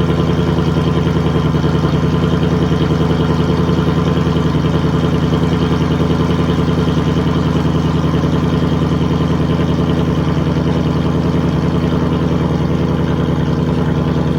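Supercharged 5.0-litre Coyote V8 of a 2015 Roush RS3 Mustang idling steadily after a cold start.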